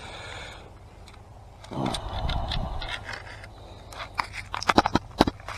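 Handling sounds of unhooking a northern pike that has swallowed the hook: a scuffling burst about two seconds in, then a quick cluster of sharp clicks and scrapes near the end.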